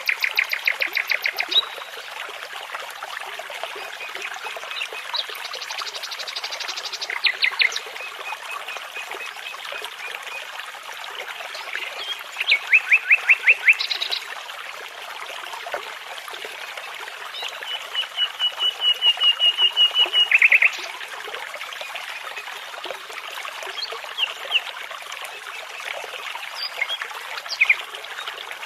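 A nightingale singing in separate phrases of rapidly repeated notes, with a long run of repeated whistled notes ending in a trill about two-thirds of the way through. Under it, the steady babble of a brook.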